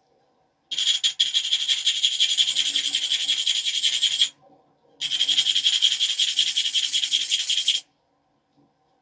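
A stone abrader rubbed rapidly back and forth along the edge of a knapped stone biface, grinding the edge to prepare platforms for flaking. The gritty scraping comes in two spells of about three seconds each, with a short pause between.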